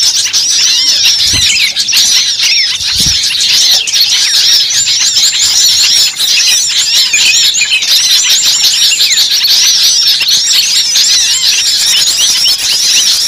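A dense chorus of many small birds chirping and chattering at once, steady and continuous, with many short high calls overlapping.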